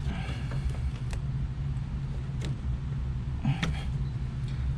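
Steady low hum in the background, with a few light clicks and knocks as engine-bay parts (hose, fitting, screw) are handled.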